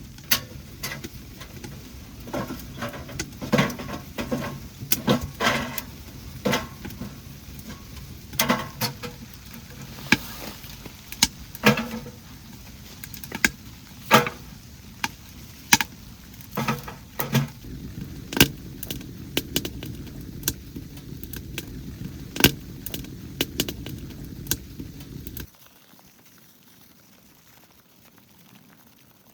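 Repeated sharp clinks and clatters of small hard objects, some ringing briefly, over a steady low hum that cuts off suddenly near the end.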